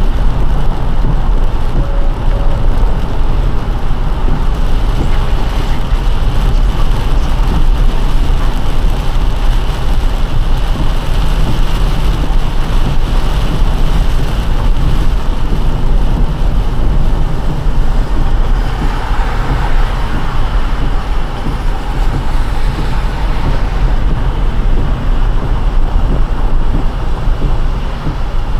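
A car driving on a rain-soaked road: steady tyre and road noise with a low rumble. The hiss swells briefly about two-thirds of the way through.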